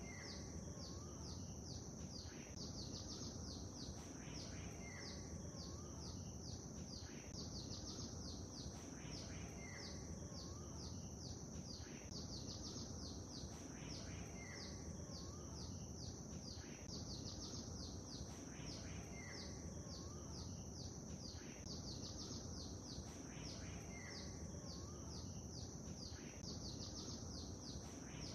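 Small birds chirping rapidly, quick high notes a few times a second over a steady high hiss and a steady low rushing noise. The same few-second stretch of birdsong repeats about every four and a half seconds.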